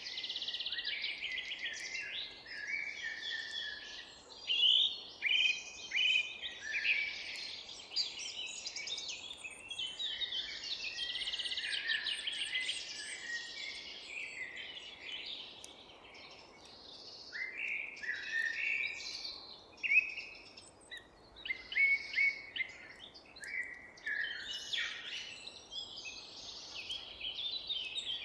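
A chorus of forest birds: many overlapping chirps and short songs, some with fast repeated notes. It thins out briefly around the middle and then picks up again.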